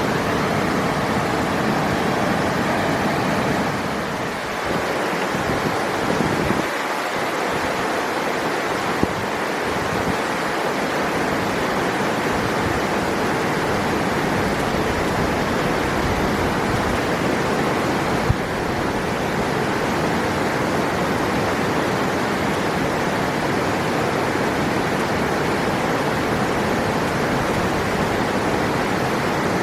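River water rushing steadily over rocks, a constant even rush with a slight lull about four seconds in.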